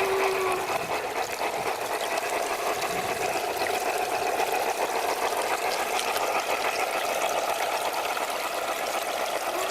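G-scale model steam locomotive running: a continuous hissing, rapidly ticking chuff. Its steady whistle cuts off about half a second in and sounds again near the end.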